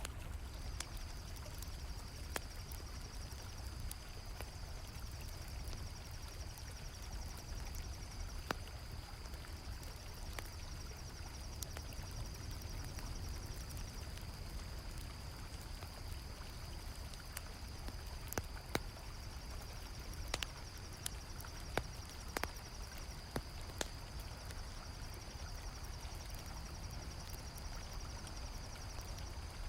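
Steady rush of flowing river water under a continuous high, rapidly pulsing cricket trill, with scattered sharp pops of a crackling campfire, more of them in the second half.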